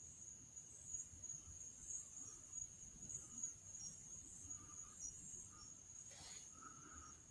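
Faint, steady high-pitched insect chirring, with a brief falling whistle-like sound about six seconds in.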